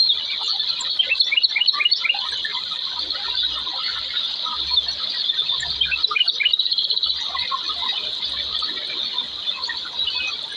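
Wild outdoor ambience: a steady high-pitched insect drone with clusters of quick bird chirps, about a second in and again around six seconds in.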